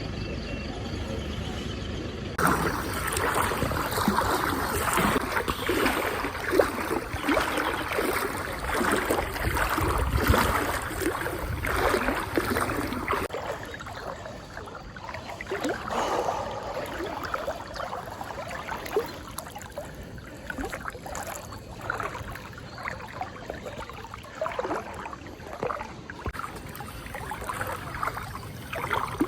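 A person wading through deep floodwater: irregular swishing and splashing of water with each stride.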